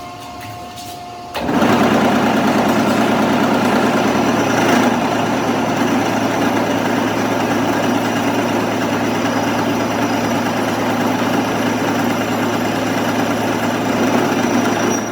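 A workshop machine starts abruptly about a second and a half in and runs steadily, with a constant low hum under a dense buzzing noise.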